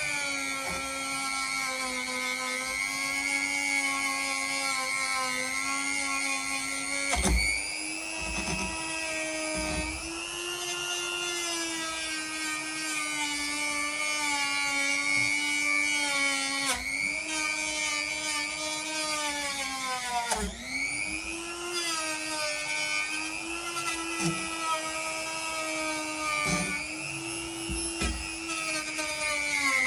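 Dremel-type rotary tool running at high speed, a steady whine whose pitch sags briefly a few times and recovers, as it polishes surface rust off a carbon-steel blade.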